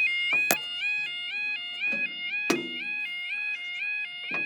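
A UK level crossing's electronic warning alarm sounding, a two-tone warble that alternates about every quarter second. Two sharp knocks come through it, about half a second in and again about two and a half seconds in.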